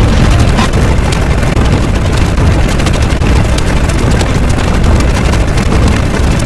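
Loud, continuous, distorted rumbling noise from a layered sound-effect track, heavy in the bass and full of crackle, with no pause or change.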